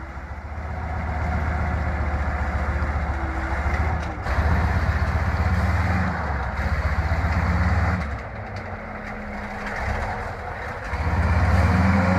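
Loaded logging truck's diesel engine labouring in mud. Its note steps up about four seconds in, drops back about eight seconds in and rises again near the end.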